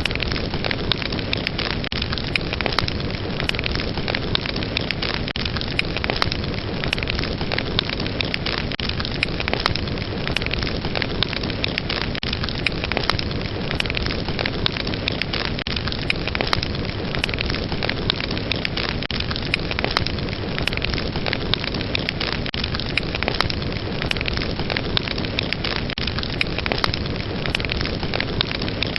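Fire burning steadily, a continuous rushing hiss dotted with many quick, sharp crackles and pops.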